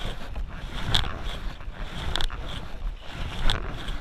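Canoe paddles dipping into the water in a steady stroke about every second and a quarter, over wind rumbling on the microphone.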